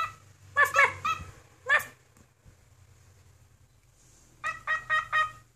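An animal calling in short pitched calls: a group of three in the first second, a single call near two seconds, a pause, then a quick run of about six shorter calls near the end.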